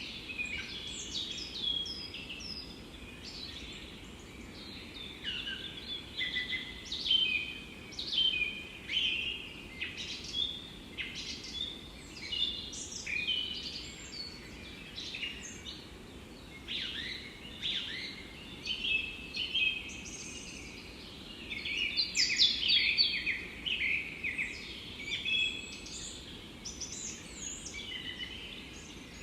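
Forest songbirds singing and chirping, several calls overlapping one after another, over a steady low background hiss; the singing is busiest a little past the middle.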